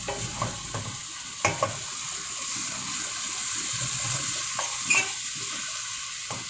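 Beaten egg for an omelette sizzling steadily in a frying pan, with a few sharp knocks and scrapes of a spatula against the pan, the loudest about a second and a half in and again near five seconds.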